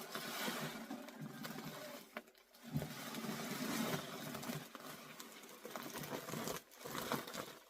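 A bag of chicken feed being handled: the bag rustles and crinkles while the grain inside shifts and patters, with a sharp knock a little under 3 seconds in.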